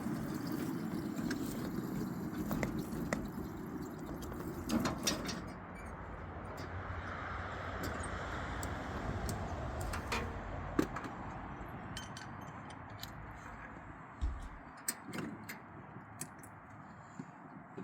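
Miniature 7-1/4-inch gauge train rolling: the steady rumble of the small electric locomotive and cars on the track, with scattered clicks and clanks of wheels and couplers. The low rumble drops off about five seconds in, and the sound fades toward the end.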